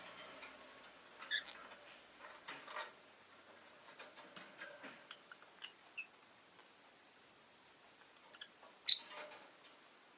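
Rosy-faced lovebirds making scattered soft chirps, clicks and small rustles, with one sharp, loud chirp near the end.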